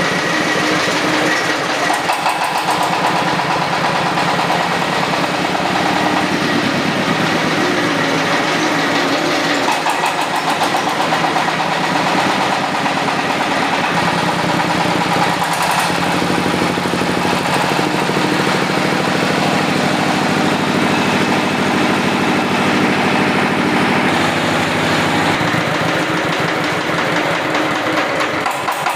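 Freshly rebuilt ZS1115 single-cylinder diesel engine running, its pitch stepping up or down a few times as its speed changes.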